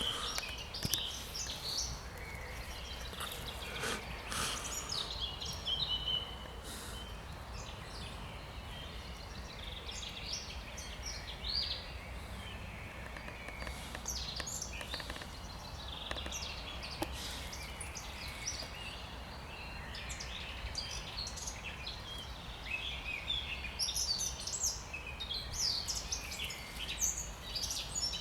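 Spring chorus of several songbirds singing: many short chirps and trills, busiest near the start and again near the end, over a low steady background rumble.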